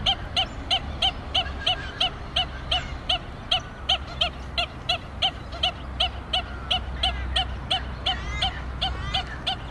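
A bird calling one short note over and over, very evenly, about three times a second, with fainter gliding calls of other birds joining about seven seconds in and a steady low rumble underneath.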